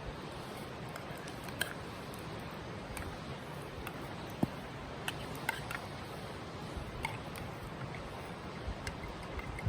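Wood campfire crackling, with sparse, irregular sharp pops over a steady hiss.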